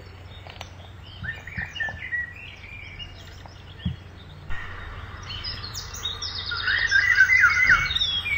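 Many small birds chirping and twittering, short high calls overlapping. The chorus grows louder and busier from about halfway.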